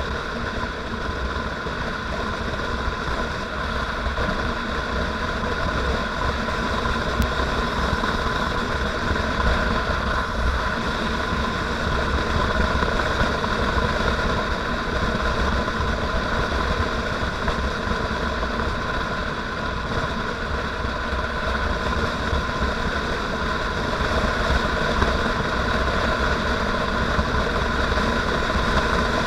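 Motorcycle engine running steadily while riding, holding a constant speed, with a steady whine of several even tones over a low rumble.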